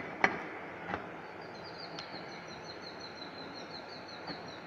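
A few light metallic clicks of micrometers being handled and touched together, and from about a second and a half in a small bird chirping a rapid run of short high notes.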